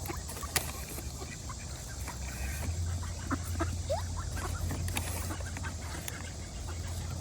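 Ducks feeding on scattered duck food: many small pecking clicks and a few short, soft calls, over a low steady rumble.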